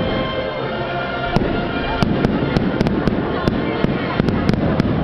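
Fireworks exploding overhead: a string of irregular sharp cracks and bangs, coming thicker from about two seconds in, over a steady bed of crowd noise and faint music.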